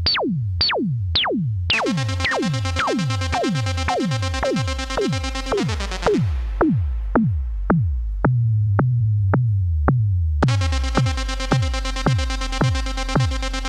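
ARP Avatar analog synthesizer playing a held, buzzy single note over a drum machine beat. The beat is a kick with a falling pitch, about two hits a second. The note drops out around six seconds in, a low bass note sounds for a couple of seconds, and the held note comes back near the end.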